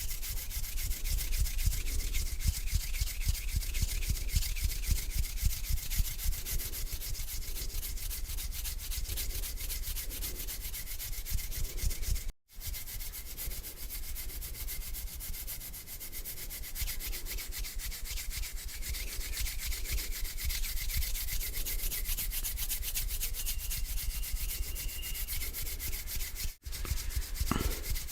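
Hands rubbing together slowly back and forth, a continuous close-up swishing in even repeated strokes, cut off for an instant twice.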